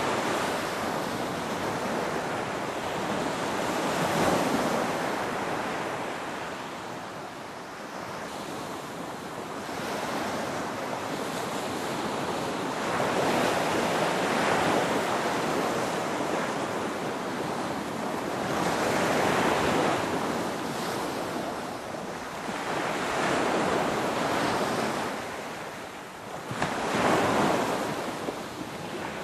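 Ocean waves breaking and washing on a shore, a steady rush of surf that swells and eases every few seconds as each wave comes in.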